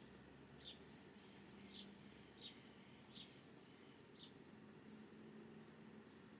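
Faint bird chirps: six or so short calls at irregular intervals in the first four seconds, with a few thin, higher calls among them, over a steady background hiss.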